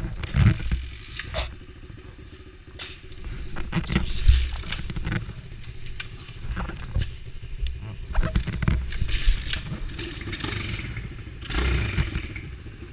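Pit bike engine running steadily, with irregular knocks, scrapes and rattles over it.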